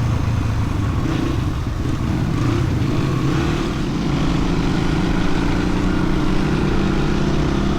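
Dirt bike engine running steadily under way, with a constant rushing noise over it.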